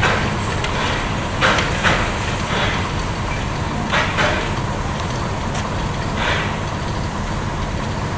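Narrow-gauge train on the move: a steady running rumble with sharp clicks every couple of seconds, often in pairs, as the wheels cross rail joints.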